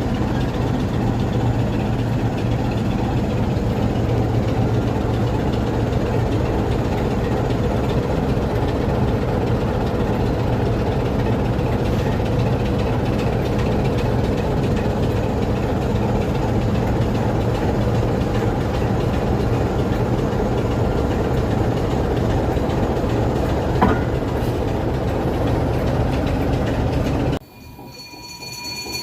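A train running on the line: a steady, even rumble with a strong low hum. It cuts off abruptly near the end, leaving a much quieter background with faint high steady tones.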